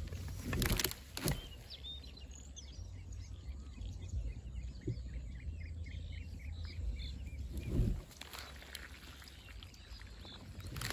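Small birds chirping, with a quick run of short chirps in the middle, over a steady low rumble. A few brief handling bumps near the start and about eight seconds in.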